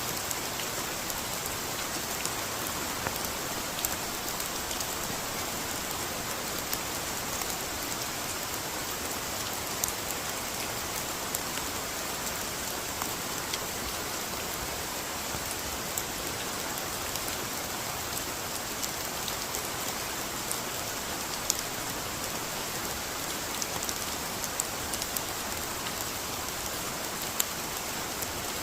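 Steady rain falling in a forest, with scattered sharp ticks of individual drops landing.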